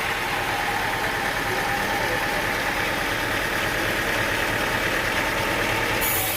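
Sawmill machinery running steadily with an engine-like hum. Near the end a sharper high hiss comes in suddenly.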